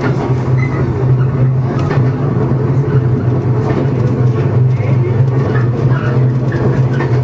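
JR 115 series electric train running, heard from inside just behind the cab: a steady low hum that comes on at the start and holds, over the rumble and light clatter of wheels on the rails.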